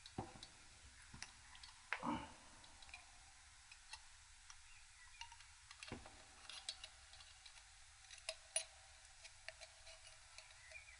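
A few faint, scattered clicks and light metallic taps, from pushrods being jiggled down their tubes to find the cam followers.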